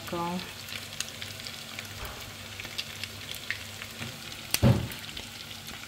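Pork meatballs frying in a bath of hot oil in a pan: a steady sizzle with scattered small crackles. A single dull thump comes about two-thirds of the way through.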